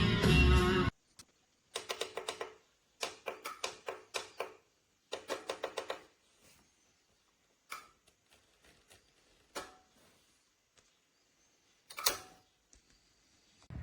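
Runs of rapid mechanical clicking, several clicks in quick succession, then scattered single clicks and one sharper click near the end.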